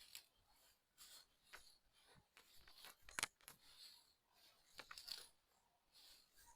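Faint footsteps crunching and brushing through dry grass and weeds: scattered light crackles and rustles, with one sharper crack about three seconds in.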